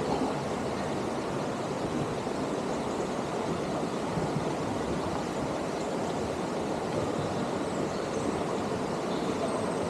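Steady rush of flowing water in a river canyon, an even unbroken noise.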